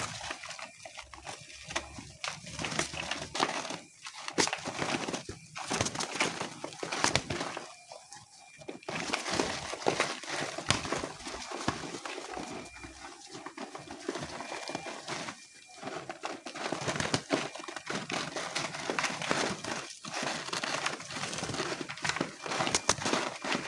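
A flock of homing pigeons moving about at feeding, with irregular clicks and rustling throughout.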